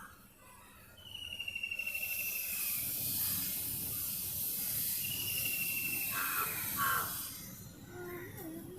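Insects shrilling at a high pitch outdoors, starting about two seconds in with a pulsing onset and fading near the end. Over it a bird gives two falling trills, and two faint caws come near the end.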